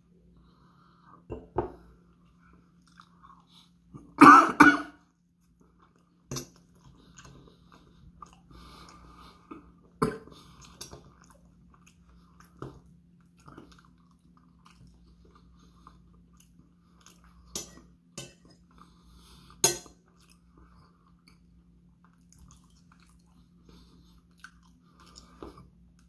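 Close-up eating sounds: a person chewing food, with occasional short clinks of a fork against a plate. A short, louder noise comes about four seconds in.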